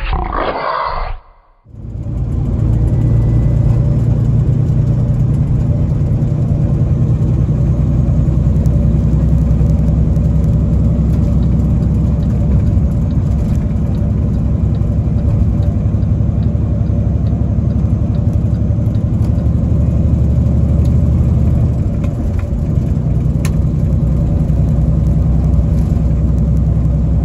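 Semi-truck tractor running down the road, heard from inside the cab: a steady, loud low engine and road rumble. In the first second there is a short wavering sound, which cuts off before the rumble sets in.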